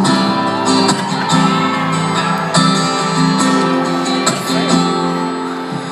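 Live band playing a song's instrumental intro, with strummed acoustic guitar to the fore.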